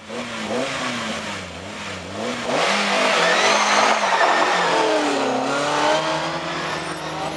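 BMW M3 rally car engine revving. Its pitch wavers at first, then climbs hard and loud about two and a half seconds in and falls away again around five seconds in.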